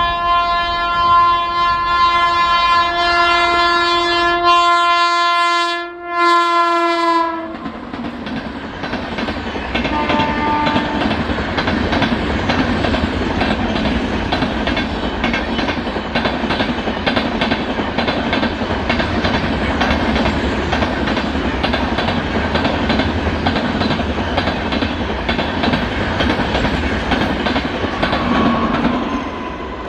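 Indian Railways express train horn sounding one long held note for about seven and a half seconds, with a short dip just before it ends. The train then passes at speed, a loud steady rush of wheels on rail with rapid clickety-clack over the rail joints for about twenty seconds, and a brief second horn note about ten seconds in.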